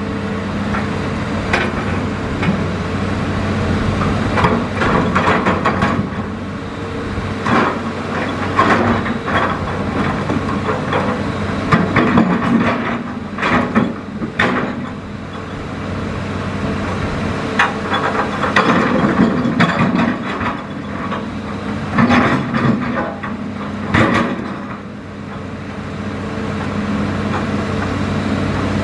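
Hitachi Zaxis excavator's diesel engine running steadily, with frequent sharp knocks and clatter as it works.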